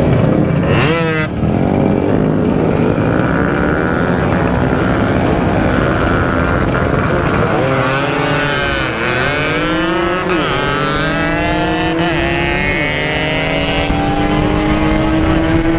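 Motorcycle engine pulling hard under full throttle, its pitch climbing and then dropping back sharply about four times as it shifts up through the gears.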